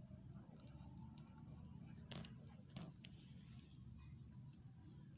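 Near silence: a low steady hum with a few faint, short, high chirps of small birds and two faint clicks about two and three seconds in.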